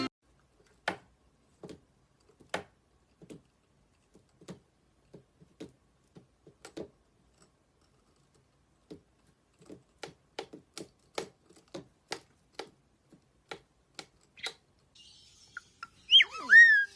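A series of short, sharp taps or clicks at irregular intervals, sparse at first and then coming two or three a second. Near the end, a loud bird whistle that sweeps down and back up in pitch.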